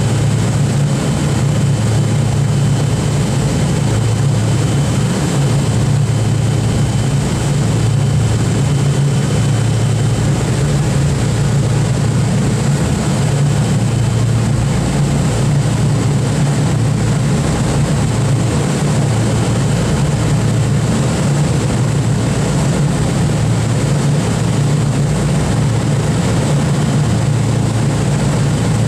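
Boeing B-29 Superfortress's four Wright R-3350 radial piston engines running steadily, a constant low engine drone with propeller noise.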